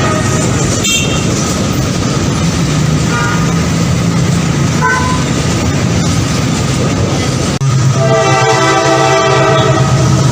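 A train running on the rails with a steady rumble, then its horn sounding loudly and steadily from about eight seconds in.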